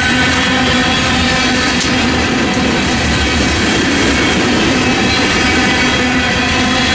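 Freight train of coal hopper cars rolling past, with a steady rumble and wheels clacking over the rail joints and a row of steady tones running over it.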